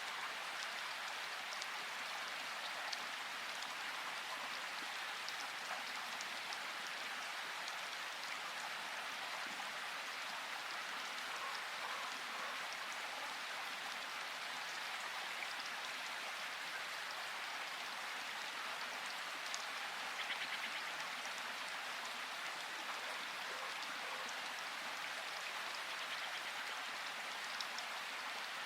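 Steady rain falling, an even hiss with individual drops ticking here and there; no thunder.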